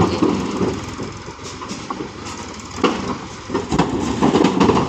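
Massey Ferguson 241 DI tractor's diesel engine running, with a couple of sharp knocks about three seconds in and growing louder near the end.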